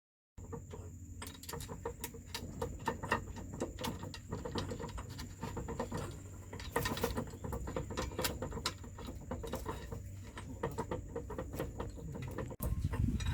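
Irregular light clicks and taps, of metal parts and hand tools being handled, over a low hum and a thin steady high whine. Near the end the sound cuts abruptly to a louder low rumble.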